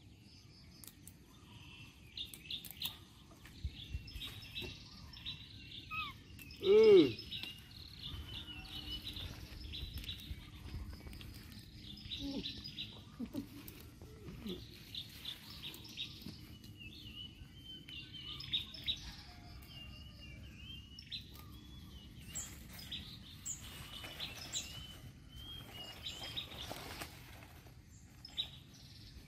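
Small birds chirping and calling throughout, with one loud short cry that falls in pitch about seven seconds in.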